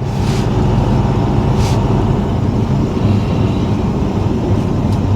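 Lorry's diesel engine running with a steady low drone, heard from inside the cab, with two short hisses in the first two seconds.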